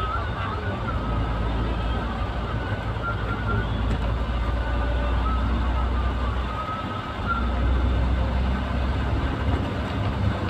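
Steady low rumble of road traffic, swelling slightly about seven seconds in, with faint wavering tones above it.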